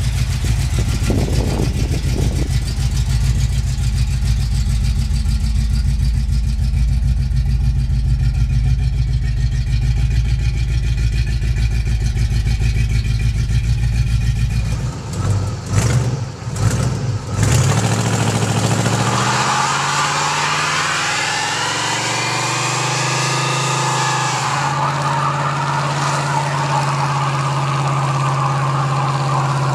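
Classic muscle car engine idling with a heavy, steady low rumble. About halfway through, after a few brief breaks in the sound, the engine runs up with a rising pitch that then holds steady at a higher pitch.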